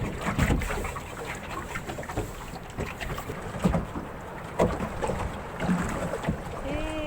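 Wind buffeting the microphone over low rumbling water noise around a small fishing boat, with scattered knocks.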